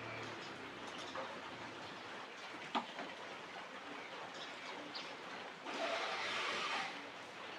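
Pigeons and a squirrel feeding: faint scattered taps and rustles, with one sharp click about three seconds in and a louder rush of noise lasting about a second near the end.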